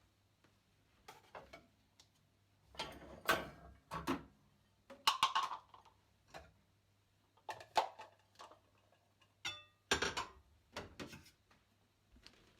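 Kitchen utensils and dishes being handled: scattered, irregular knocks and scrapes, with a short ringing clink about nine and a half seconds in.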